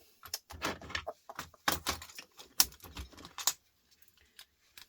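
Quick run of small clicks and metallic rattles as the ends are screwed off a small scrap item by hand, dying down to a few faint ticks after about three and a half seconds.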